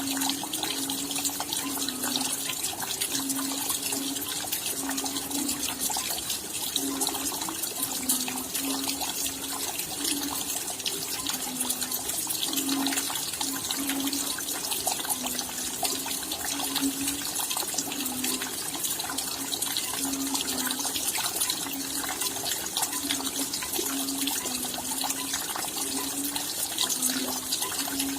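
Steady rain, a dense patter of drops, with a low note pulsing irregularly underneath about twice a second.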